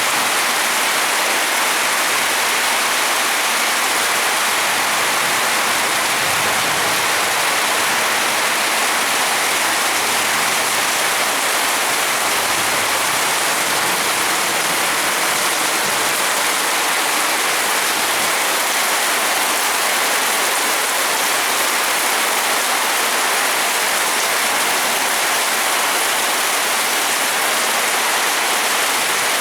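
Heavy rain falling in a steady downpour during a storm, a dense even hiss of rain on surfaces.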